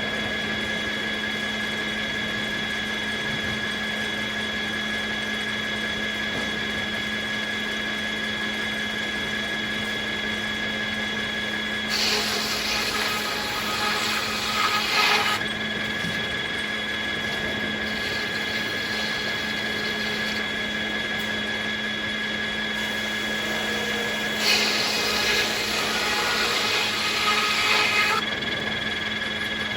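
Circular sawmill running steadily with a constant hum. Twice, about 12 seconds in and again about 24 seconds in, a louder, brighter noise rises for three to four seconds as the blade cuts through willow.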